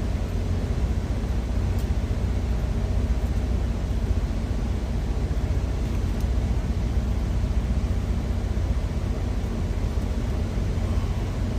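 Steady low engine rumble of an idling truck, with a few faint clicks about two, three and six seconds in.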